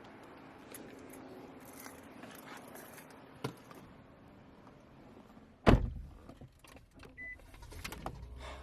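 A car door shutting with one loud thump, followed by light clicks and a rattle of keys, and a single short high beep near the end.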